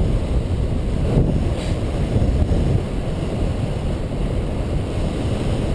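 Wind rushing over the microphone of a tandem paraglider in flight in strong wind: a steady low rumble of airflow.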